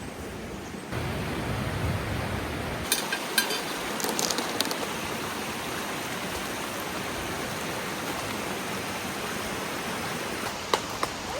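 Steady rush of a mountain stream flowing over rocks, with a few light clicks about three to four seconds in.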